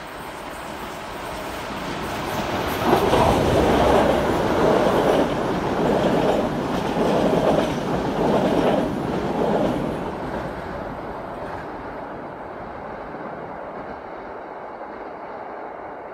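Diesel-hauled passenger train passing close by: the sound builds up, then comes a loud stretch of rhythmic wheel clatter over the rail joints, about one beat a second, before it slowly fades away.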